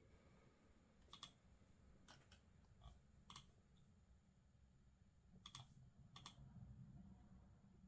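Faint, scattered clicks of a computer keyboard: about seven isolated key presses rather than steady typing, over a low, steady room hum.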